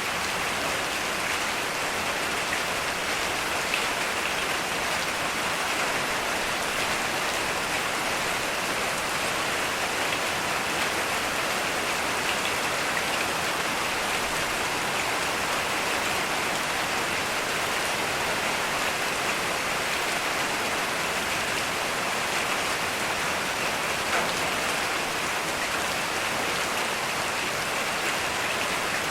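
Heavy rain falling steadily, an even hiss with a few separate drops standing out now and then.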